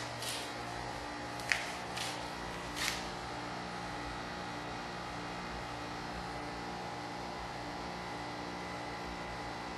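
Porsche 911 Carrera flat-six engine idling steadily. A few short sharp clicks come in the first three seconds.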